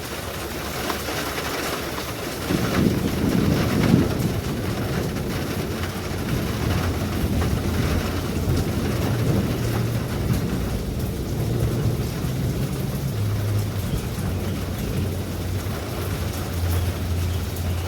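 Steady rain falling, with a low rumble swelling and fading about three seconds in, then a low drone beneath the rain.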